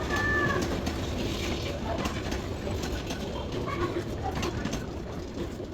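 Passenger train carriages rolling slowly along a station platform: a steady low rumble with rattling and clanking from the wheels and couplings.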